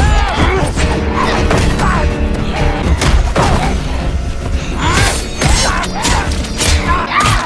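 Action-film soundtrack: music under a fight, with repeated thuds, hits and crashes throughout.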